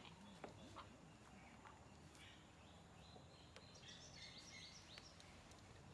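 Near silence: faint outdoor garden ambience with a few soft, high bird chirps and scattered faint clicks.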